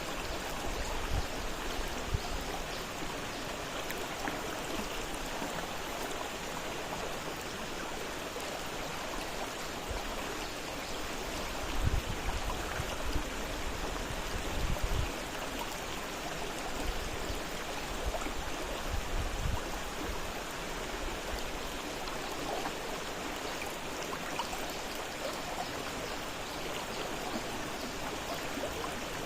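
Fast-flowing river water rushing steadily over its bed. A couple of brief low rumbles come about halfway through.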